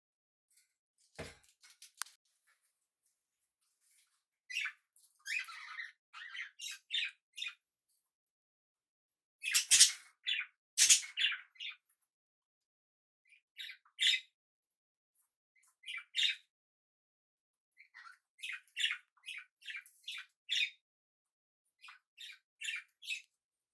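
Small pet parrots calling in short chirps and squawks, in quick runs of several calls with pauses between, loudest about ten seconds in. A soft knock is heard about a second in.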